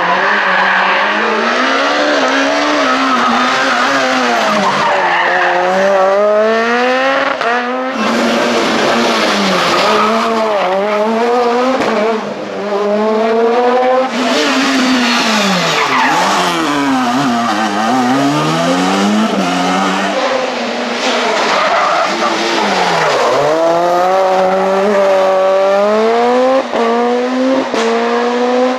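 Super 2000 rally car's naturally aspirated two-litre four-cylinder engine driven hard on a stage: the pitch climbs in steps through quick upshifts, drops sharply on braking and downshifts, then climbs again, over and over.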